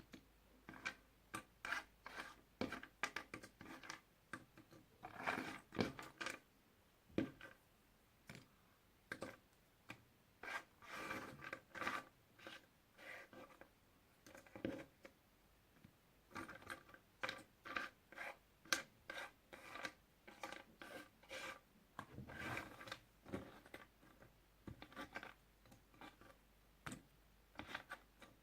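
Puzzle pieces being handled close up: many light clicks and short rubbing and sliding sounds, a few a second, with a few longer stretches of rubbing.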